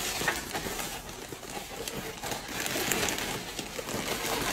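Brown kraft paper wrapping rustling and crinkling as it is pulled and torn off a gift box, a steady papery noise with scattered crackles.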